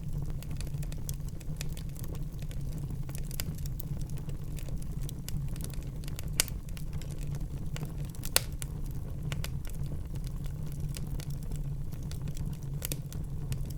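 Wood fire burning in a fireplace: a steady low rush of flame under a constant scatter of small crackles, with two louder pops about six and eight seconds in.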